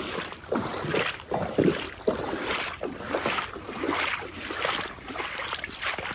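Legs wading through knee-deep floodwater, a swish and slosh of water with each stride, about two strides a second.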